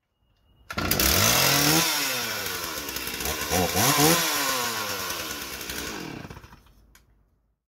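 Small two-stroke chainsaw engine revved up twice, its pitch rising and falling each time, then winding down and fading out.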